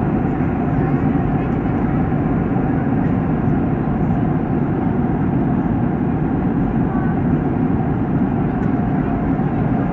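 Boeing 737 jet noise: a loud, steady rumble of engines and rushing air that holds level without rising or falling.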